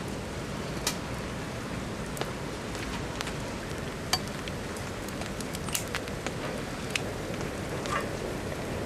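Steady rain falling, with sharp ticks at irregular moments, about one a second.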